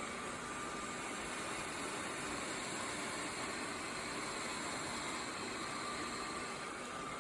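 roborock Q7B+ robot vacuum system's suction fan running with a steady rushing noise and a faint high whine.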